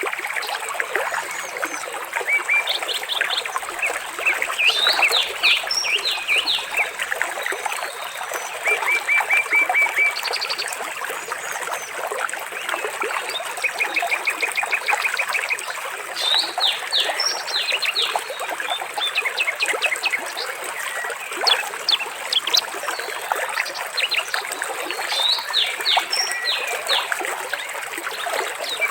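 Water trickling steadily, with many birds chirping and calling over it, including several quick, evenly spaced trills.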